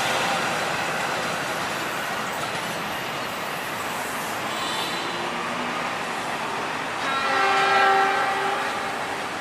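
A train running past on the tracks with a steady rumble. About seven seconds in, a train horn sounds and is held for about two seconds.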